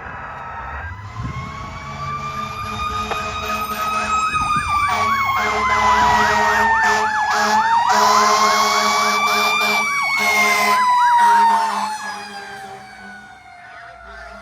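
Federal Q mechanical siren on fire apparatus, screaming in long slow wails that rise and fall, with a second siren yelping rapidly over it through the middle. It grows louder as the apparatus approaches, then fades after about twelve seconds as it passes.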